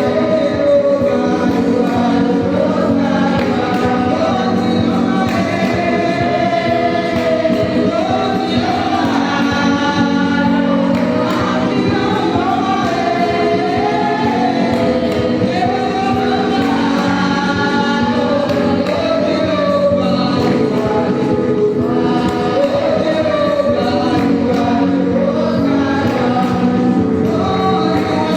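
A choir singing a gospel song in several voices over a steady held accompaniment.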